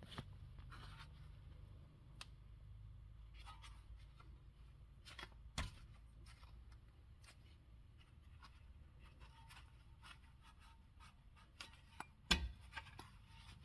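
Faint clicks, taps and scrapes of tools and brake parts being handled, with a louder sharp knock about five and a half seconds in and another near the end.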